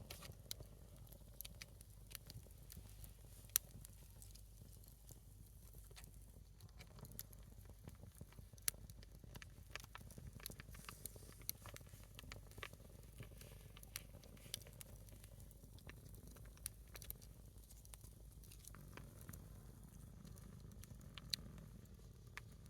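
A single split log of firewood burning in a small fire, crackling quietly with scattered irregular pops and snaps, one louder pop a few seconds in.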